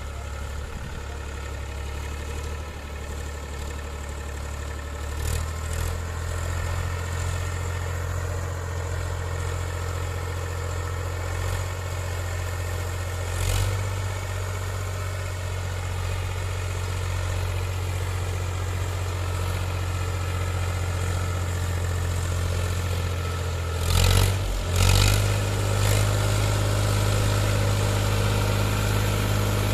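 Powertrac Euro 47 tractor's diesel engine running steadily, picking up about five seconds in, with a few short knocks, two of them close together near the end.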